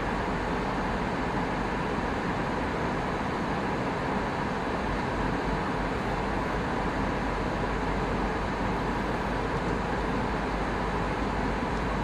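Steady in-flight cabin noise in an Airbus A319 airliner: the even rush of airflow and engine hum, with no changes.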